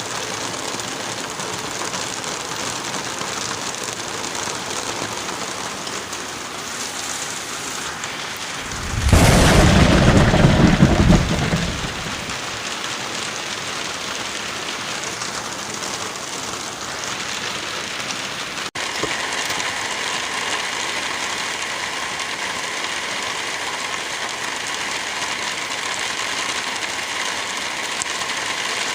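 Steady rain, with one loud thunderclap rumbling for about three seconds roughly nine seconds in. A brief dropout about nineteen seconds in, after which the rain runs on in a steadier texture.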